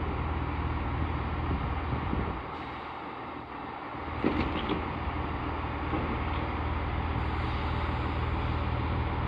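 Chiltern Railways Class 165 diesel multiple unit standing at the platform with its diesel engines idling, a steady low hum that dips for a moment. About four seconds in there is a short clunk with brief high squeaks.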